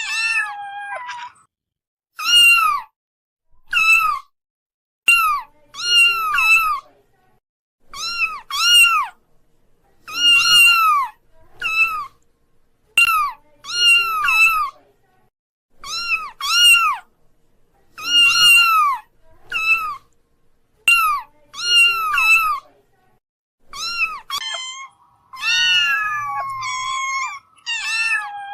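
High-pitched kitten meows repeated over and over: short mews that rise and fall, often in quick pairs, roughly one every second or so, with a few longer drawn-out falling cries near the end.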